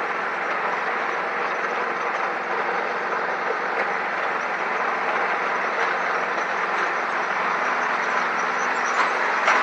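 Steady motor-vehicle engine running with an even drone, and a couple of small clicks near the end.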